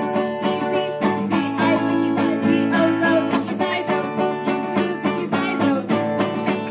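Lively plucked-string music, with many quickly picked notes over held chords.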